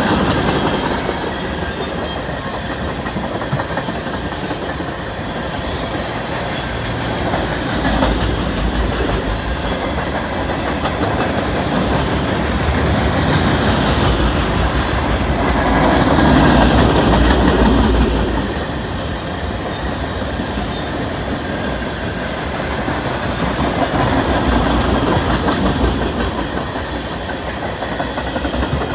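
Cars of CN train 435 rolling past, their wheels clicking over the rail joints in a continuous rumble that swells and fades several times, most strongly about two-thirds of the way through, with some wheel squeal.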